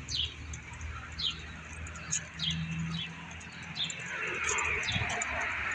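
Small birds chirping: short, high, falling chirps about once a second, over a low steady hum. About four seconds in, a rushing noise swells in beneath them.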